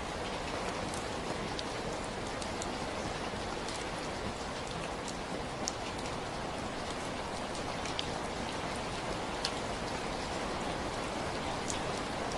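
Steady rain falling, an even hiss with scattered sharper drops ticking close by.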